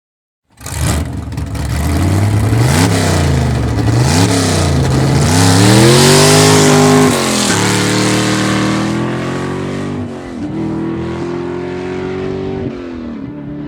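A car engine revved twice in short blips, then accelerating hard through the gears. The pitch climbs and drops suddenly at each of three upshifts.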